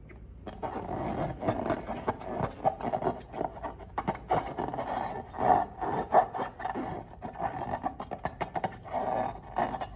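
Slime being squeezed and worked by hand: a dense, irregular run of sticky squelches and small crackling pops that starts about half a second in.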